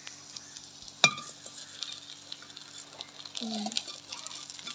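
Potato-and-egg patty sizzling in shallow oil in an aluminium pot, with a sharp metal clink against the pot about a second in. A perforated steel spatula scrapes in under the patty to turn it.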